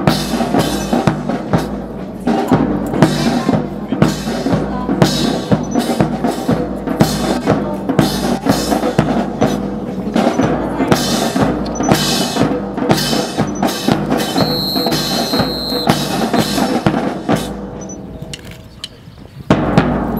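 Marching drum corps playing snare and bass drums in a fast, steady cadence. A high steady tone sounds for about a second and a half around two-thirds of the way through. Near the end the drumming drops off, then comes back in loudly.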